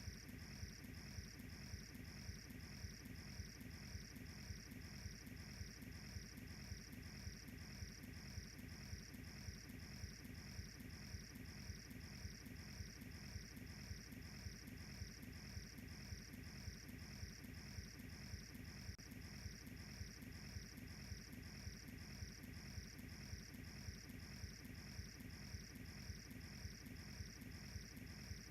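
Crickets chirping steadily, a faint high pulse about twice a second, over a low even hum.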